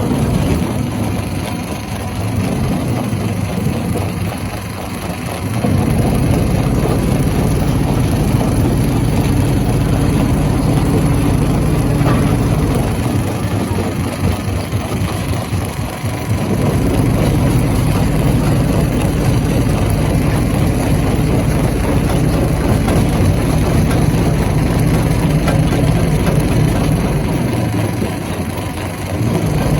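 Heavy stone crusher running with a steady low mechanical drone. It grows louder about six seconds in, eases off for a few seconds around the middle, then dips again near the end.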